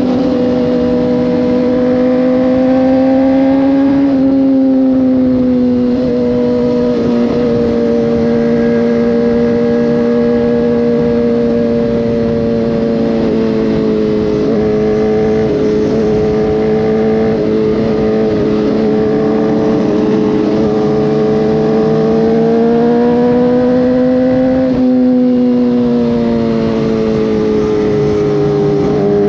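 Motorcycle engine running at steady cruising speed, heard from the bike itself. Its pitch drifts slowly up and down with the throttle, with a brief dip about four seconds in and again near the end.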